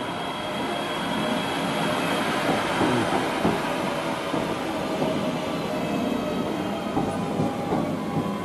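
Passenger train running at the station platform: a steady rail rumble with a faint, even whine.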